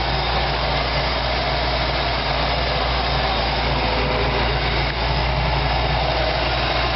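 Chevy 350 small-block V8 with MSD Atomic EFI fuel injection idling steadily.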